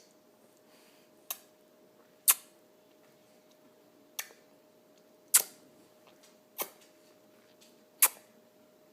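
Kiss noises: six short, sharp smacking kisses, spaced one to two seconds apart.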